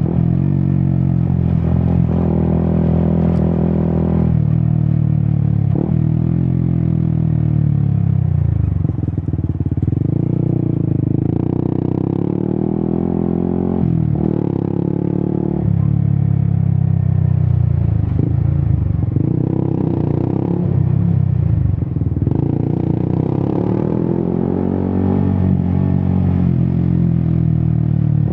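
Yamaha XSR 155's single-cylinder engine running through an Akrapovic exhaust while riding, the revs climbing and dropping back several times.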